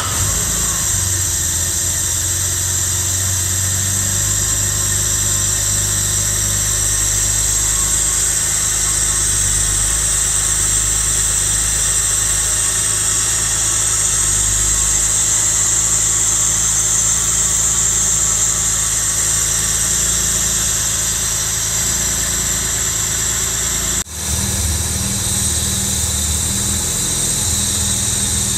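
Jaguar E-Type's 4.2-litre straight-six XK engine running steadily at idle, just started for the first time on new triple SU carburettors with the mixture still at its bench setting. The sound breaks off for a moment near the end, then picks up again.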